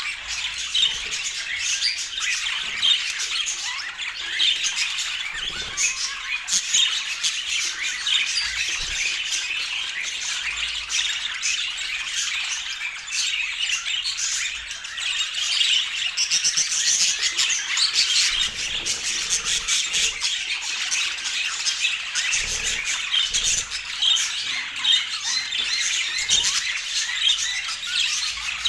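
Budgerigars chattering: a steady stream of quick, overlapping chirps and warbles with no break.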